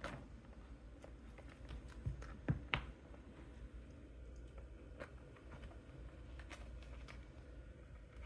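A kitten playing with a pair of knit shoes makes light, scattered taps and scuffs. A few louder knocks come a little after two seconds in.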